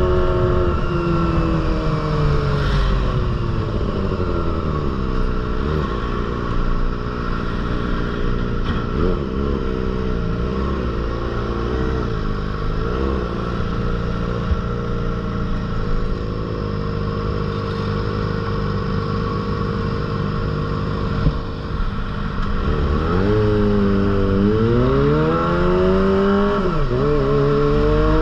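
Kawasaki ZX-25R's 249 cc inline-four running through an aftermarket Proliner exhaust. The revs fall from high at the start, waver at middling revs through the middle, then climb twice near the end with a sharp drop between.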